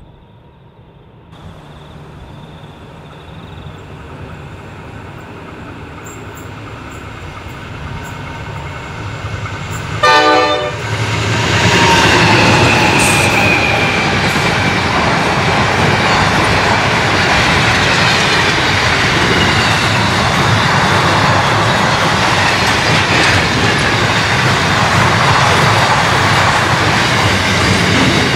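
A freight train hauled by NR class (GE CV40-9i) diesel-electric locomotives passing at speed. The rumble builds as it approaches, and a short horn blast sounds about ten seconds in. Then comes the loud pass of the locomotives and the steady running noise of the wagons on the rails.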